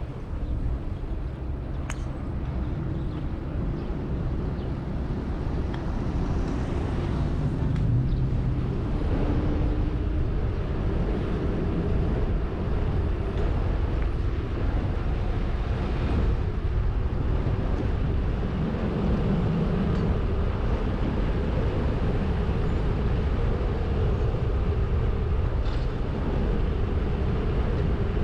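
Steady low rumble of wind and tyre noise while riding a bicycle, growing a little louder a few seconds in.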